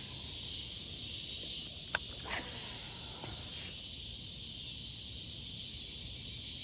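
Steady high-pitched chorus of insects such as crickets, with two sharp clicks about two seconds in.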